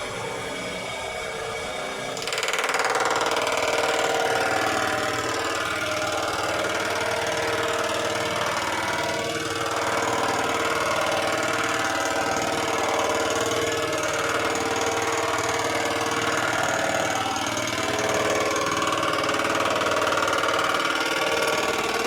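Lawn mower engine running steadily; about two seconds in it gets louder and fuller, then holds.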